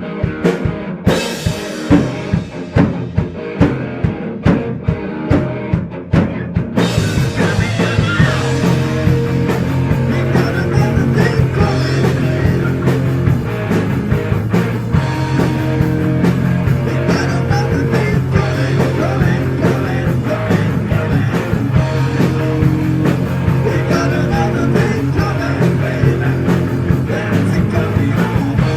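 Heavy metal band playing: a sparse intro with evenly spaced hits, then the full band with drums and guitars comes in about seven seconds in.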